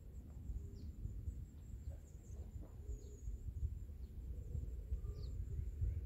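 A few faint, short bird chirps over a steady low rumble of outdoor noise.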